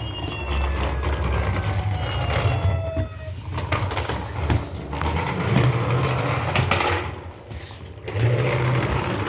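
Small battery-powered toy motor whirring steadily, with faint siren-like tones in the first few seconds; the whirring drops away briefly about seven seconds in, then resumes.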